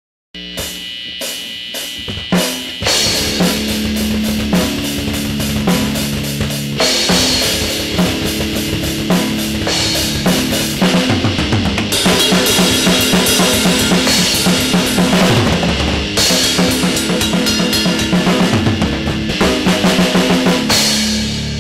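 Instrumental band intro of a rap-rock track: a drum kit with kick drum and snare playing a steady beat under sustained guitar. The full drum beat comes in about three seconds in.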